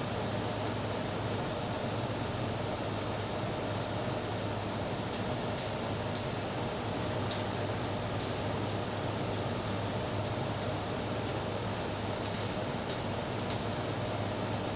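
Toshiba window air conditioner's fan motor running on high speed: a steady rush of air over a low hum, with a few faint ticks. Something is wrong with the fan, which the owner fears is a failing run capacitor and then puts down to the fan motor itself.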